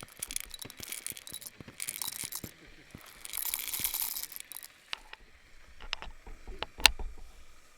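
Small objects being handled: scattered clicks and clinks with two stretches of rustling or crinkling, and one sharp knock about seven seconds in that is the loudest sound.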